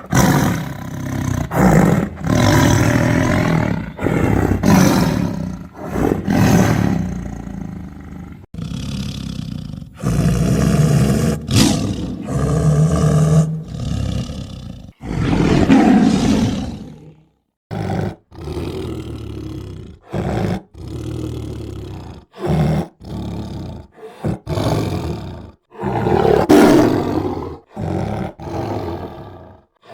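A tiger roaring and snarling again and again: a rapid series of loud, growling roars, each cut off abruptly where separate recordings are spliced together, with a few short silent gaps between them.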